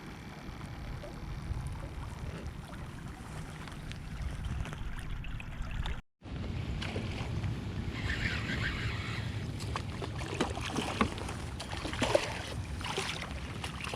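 Wind and water noise around a small fishing boat, with scattered knocks and splashes. The sound cuts out briefly about six seconds in.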